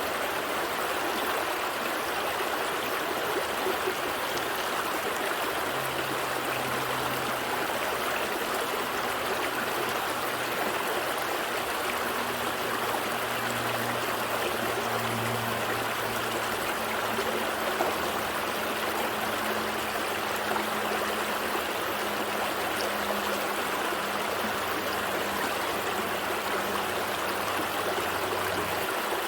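A small forest stream flowing steadily, a constant rushing and trickling of water. From about six seconds in, a faint low hum runs underneath the water.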